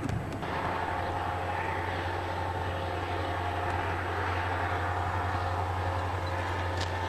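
Diesel locomotive engines running with a steady, even drone: a deep hum with a few higher steady tones over it.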